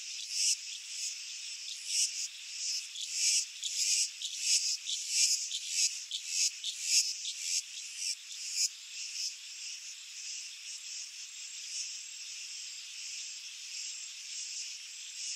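A chorus of insects: a steady, high-pitched buzzing, with irregular louder pulses over roughly the first nine seconds before it settles into an even drone.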